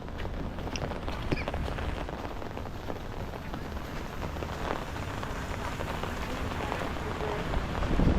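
Steady rain falling, with many separate drops ticking close by over the even hiss.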